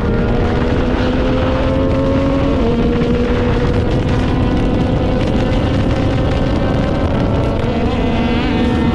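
Yamaha MT-09's three-cylinder engine running while riding, its pitch climbing slowly with a small drop about two and a half seconds in. Wind noise on the microphone underneath.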